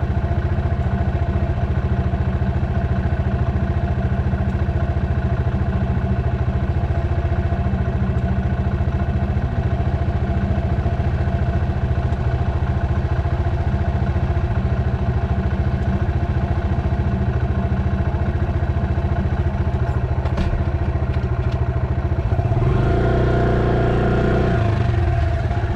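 Dirt bike engine running at a steady speed, with a few clicks a little past two-thirds of the way through. Near the end the engine note grows louder and fuller for a couple of seconds, then settles back.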